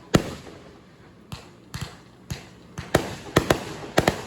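Fireworks going off: about ten sharp bangs in quick, irregular succession, each trailing off briefly.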